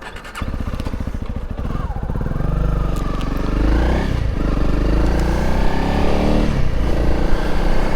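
Honda CRF300 Rally's single-cylinder engine running through its exhaust, starting about half a second in. The revs rise and fall back twice.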